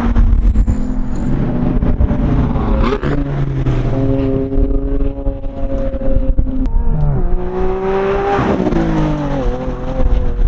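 Supercar engines running at low speed on parade laps, their notes holding steady and shifting in pitch up and down several times. Wind buffets the microphone.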